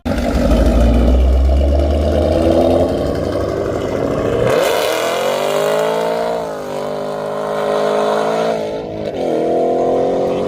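Car engine running loud with a deep rumble, then revving: about halfway through its pitch climbs, then dips and climbs again twice.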